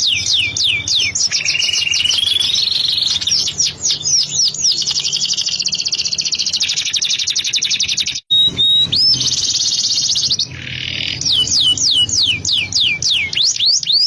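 Domestic canary singing a long, continuous song: runs of quick down-slurred notes, a rising trill, and a long rapid trill, with the sound cutting out for an instant a little past halfway before more quick slurred notes.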